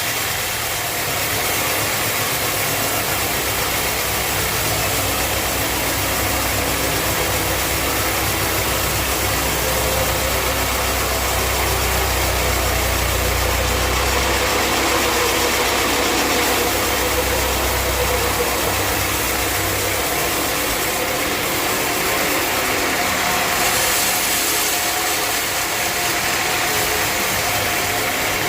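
Sawmill machinery running steadily, with a deeper hum that strengthens through the middle and then eases.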